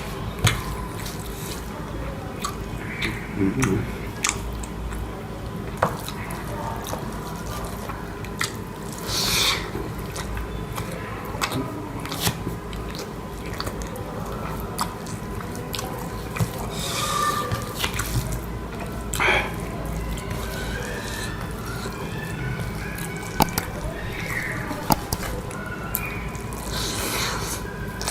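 Wet eating sounds of egg curry and white rice being eaten: scattered smacks, squelches and clicks, with a few louder bursts, over a steady low hum.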